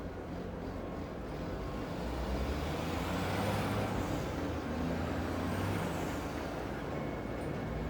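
A vehicle passes over a steady city background, its low rumble and hiss swelling for a few seconds and then easing off, with faint high whines at its peak.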